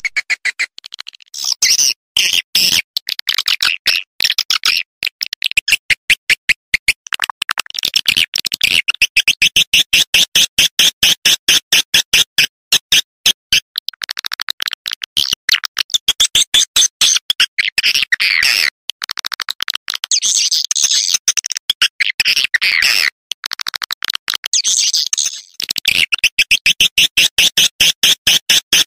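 Recorded swiftlet calls played as a lure: a loud, rapid chattering twitter of closely spaced clicking pulses. It comes in long runs with brief breaks every few seconds.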